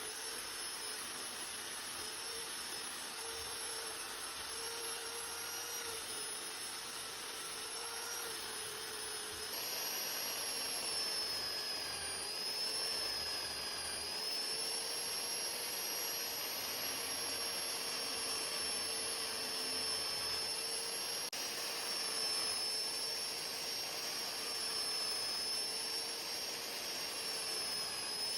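A handheld electric power tool, such as a grinder, running steadily with a high whine, its pitch dipping slightly now and then as it works against the metal. About ten seconds in it turns a little louder and harsher.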